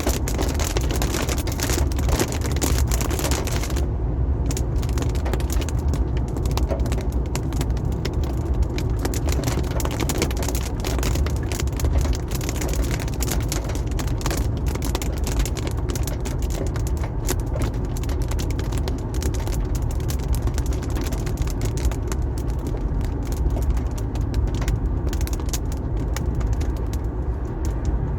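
Car driving on a wet highway: steady low road and tyre rumble with rain and spray hiss, which drops off sharply about four seconds in, and scattered ticks of raindrops.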